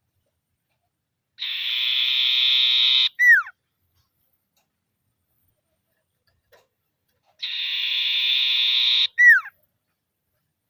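Common iora (sirtu/cipoh) calling twice: each call is a steady, fast trill lasting about a second and a half, ending in a sharp downward-sliding whistle. This is the trilling 'ngetir' call.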